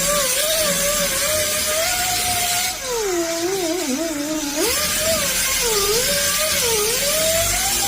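Electric rotary polisher fitted with a grinding disc, grinding down body filler on a truck panel. Its motor whine wavers in pitch as it is pressed, and drops to a much lower pitch for about two seconds near the middle as it bogs under load, over a gritty grinding hiss.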